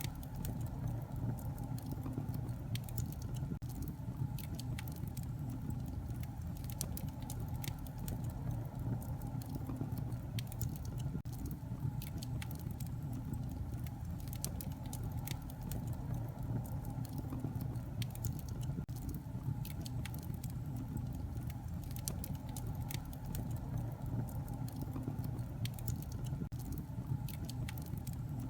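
Wood fire crackling in a fireplace: a steady low rumble of flames with many small, irregular pops and snaps throughout.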